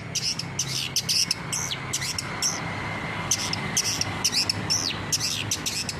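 Long-tailed shrike (cendet) calling in a rapid run of short, sharp, high notes, about three a second, over a faint steady hum.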